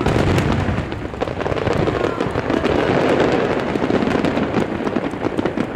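Aerial fireworks going off: a low boom right at the start, then dense, continuous crackling from many bursting stars.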